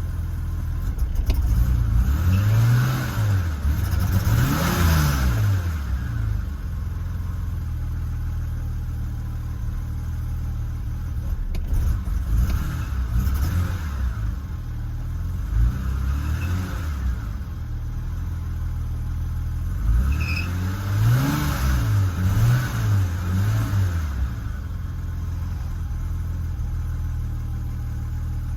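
1992 BMW 730i (E32) engine idling, revved in two bursts of quick throttle blips, the first a few seconds in and the second about two-thirds of the way through. The pitch rises and falls with each blip, then settles back to a steady idle.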